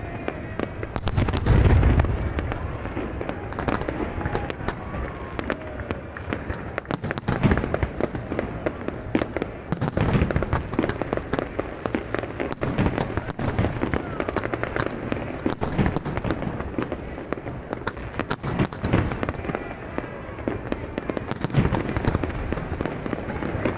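Aerial fireworks display: dense crackling and popping throughout, punctuated by deep booms of shells bursting, the loudest about two seconds in and more every few seconds after.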